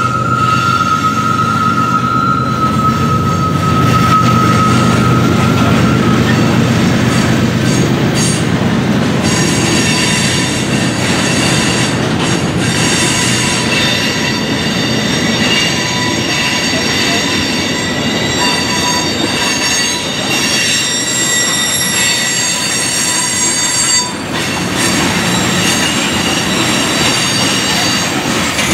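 Freight train of tank cars rolling past, a steady rumble of wheels on rail with high-pitched wheel squeal coming and going over it.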